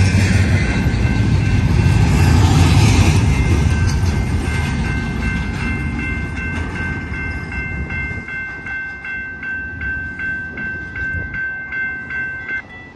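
BNSF double-stack container train rolling past, its heavy rumble and wheel noise fading steadily as it moves away, while the railroad crossing's warning bell rings steadily. The bell cuts off suddenly just before the end, as the train clears the crossing.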